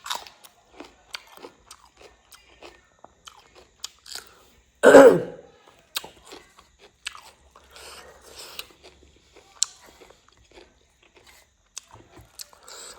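Close-up eating sounds: chewing and crunching with small wet mouth clicks. One loud throat-clearing cough about five seconds in.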